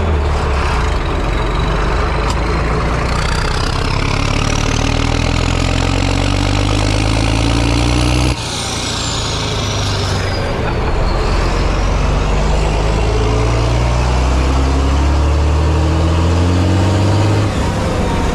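Tractor engine pulling up through its revs: the pitch climbs steadily, drops suddenly about eight seconds in, then climbs again for most of the rest.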